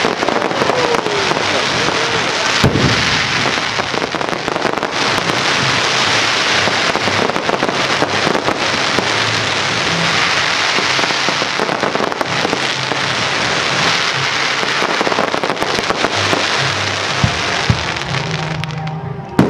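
Fireworks crackling: a dense, continuous sizzle of many small pops with a few sharper cracks, dying away near the end.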